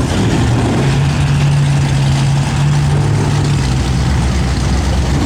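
Twin-turbo Chevy pickup engine running at a steady speed, its note dropping lower about three and a half seconds in as the revs fall back.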